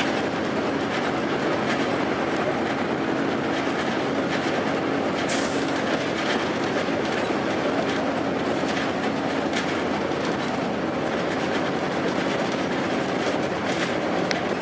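Onboard running noise of a 2002 Blue Bird transit bus under way: a steady drone from its Cummins ISC inline-six diesel mixed with road noise, with scattered body rattles and clicks. A faint high whine joins about halfway through.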